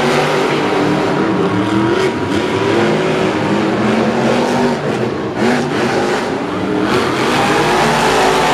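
Monster truck engines running hard during a race, their pitch rising and falling as the drivers rev and lift.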